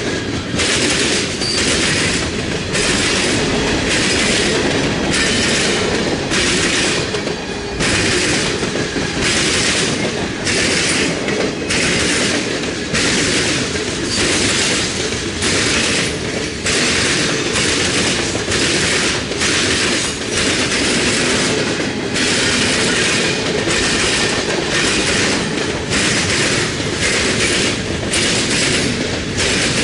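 Freight train cars rolling past close by: a steady rumble with wheel clatter repeating in an even rhythm of about one and a half beats a second.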